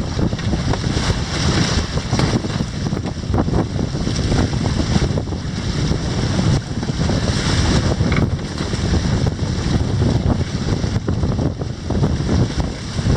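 Strong wind buffeting the microphone over water rushing and splashing past the hulls of an inflatable catamaran sailing fast in a fresh breeze, the noise swelling and easing with the gusts.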